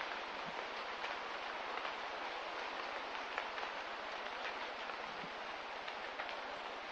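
Steady hiss of light rain, with a few separate drips ticking now and then.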